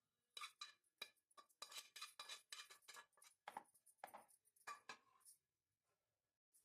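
Metal utensil clinking and scraping against cookware: a quick, irregular run of light clinks for about five seconds, then it stops.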